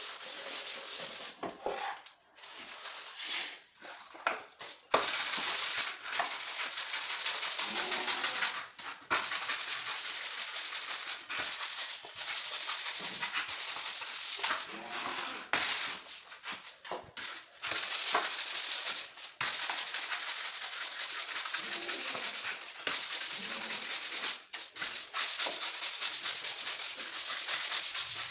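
A dried loofah gourd being rubbed and scraped by hand, giving a dry, rough scratching in long stretches of several seconds broken by short pauses.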